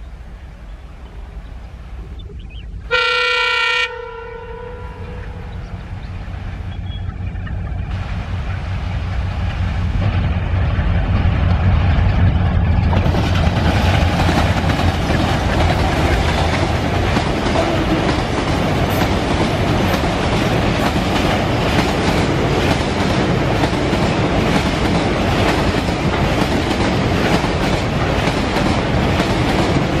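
Twin diesel locomotives at the head of a fast tanker freight train: one short horn blast about three seconds in, then the engines' rumble builds as they pass, and from about halfway on the tanker wagons roll by with a rapid, steady clickety-clack of wheels over rail joints.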